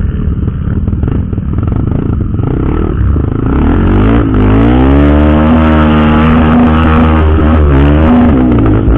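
Trail motorcycle engine under way: a rough, uneven rumble at first, then about three and a half seconds in the revs climb and the engine runs hard and high, its pitch rising and dipping a little as the throttle changes.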